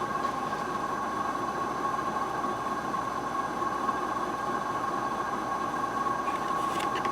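SMC X-42 42-inch ceiling fan running steadily on its high speed: an even rush of air with a steady tone running through it. A few faint ticks near the end.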